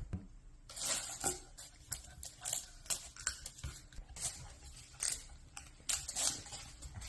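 Irregular crinkling and tearing handling sounds as Model Magic modeling compound is pulled apart and pressed around a plastic volcano tube.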